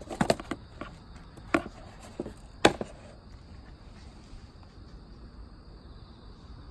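A few sharp knocks or clatters in the first three seconds, the last one the loudest, then a steady faint high trill of insects.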